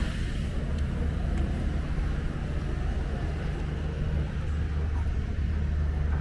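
Steady low outdoor rumble with no distinct events, the kind of background noise heard beside city streets.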